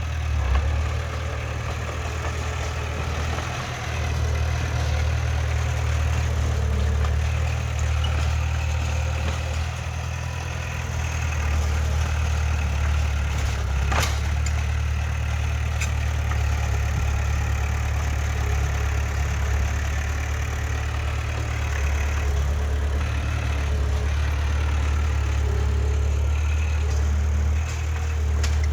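Heavy diesel earthmoving machine engine running steadily with a deep low rumble, swelling slightly a couple of times. There is a single sharp click about halfway through.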